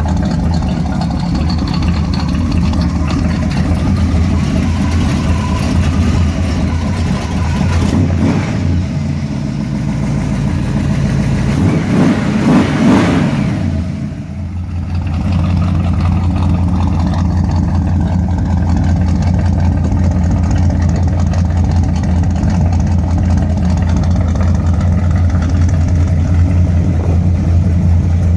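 A Pontiac 400 cubic-inch V8 with Ram Air III heads and an 068 Ram Air III cam, in a 1973 Trans Am race car, running at idle. About twelve seconds in it is revved up once and falls back to a steady idle.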